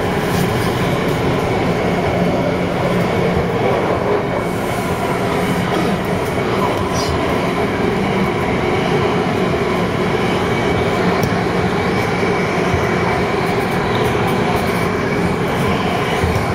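Taipei Metro C301-type train running at speed: a steady rumble of wheels on rail with a faint steady hum.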